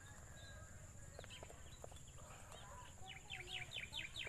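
Faint birdsong: scattered short chirps, then a quick run of about five falling chirps near the end, over a steady high-pitched whine.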